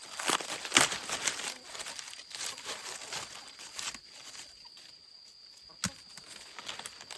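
Dry corn husks and leaves crackling and tearing as corn is picked and husked by hand. The rustling is busiest in the first half, then thins out, with one sharp snap about six seconds in.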